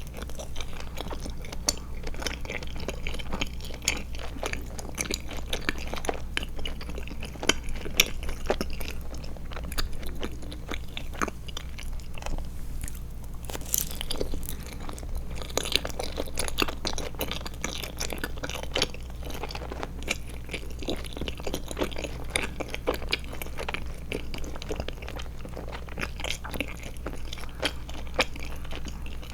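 Close-miked chewing of Trolli Glotzer eyeball gummies: a dense, continuous run of small wet clicks and smacks, with a few sharper, louder bites about eight and fourteen seconds in.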